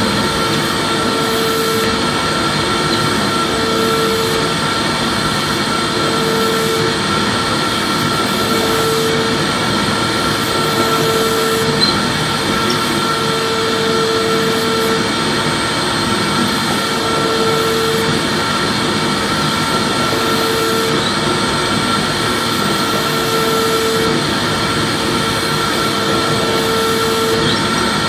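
Vacuum cleaner running steadily: a loud, even rushing noise with thin high whines, and a lower tone that fades in and out about every two seconds.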